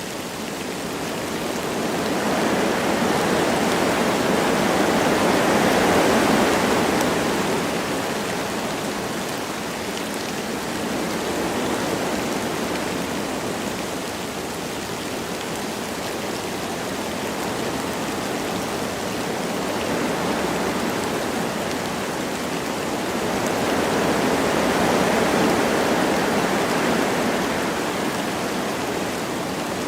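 Wind gusting through forest trees over a steady hiss of light rain. The wind swells to a peak about six seconds in, eases off, then swells again a few seconds before the end.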